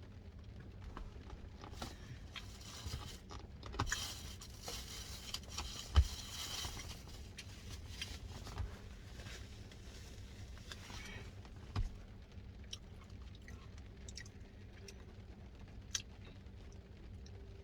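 Quiet eating sounds: chewing and a spoon scraping through a Dairy Queen pecan pie Blizzard in its cup, with a longer scraping, rustling stretch a few seconds in and a couple of soft knocks.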